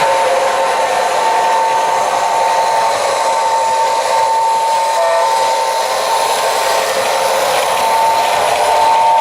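Märklin H0 model diesel locomotive running along the track: a steady whirring motor and wheel noise, with a thin high whine that breaks off and comes back a few times.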